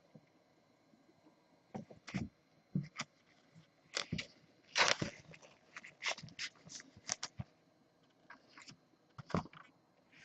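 Trading cards and their plastic sleeves and holders being handled: a scattered series of short crinkles and clicks.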